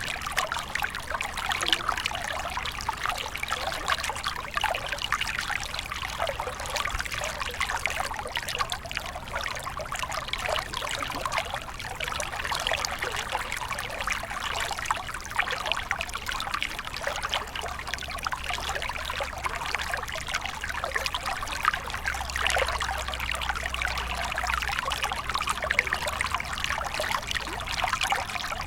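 Small stream flowing steadily over stones, a continuous trickling and splashing with a faint low rumble underneath.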